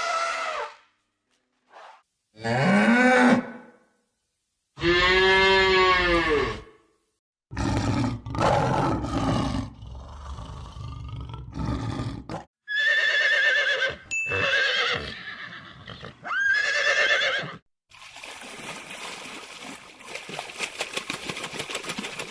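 A run of separate farm-animal calls with short silent gaps between them: a long arching call about five seconds in, then several quavering calls. Near the end comes a fast, rapid ticking and rustling.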